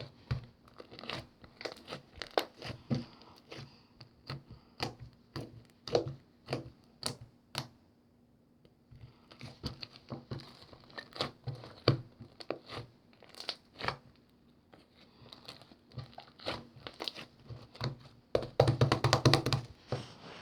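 Slime being squished and pressed by hand, giving a string of sharp clicking pops and crackles. There is a short lull about eight seconds in, and a dense run of crackling near the end.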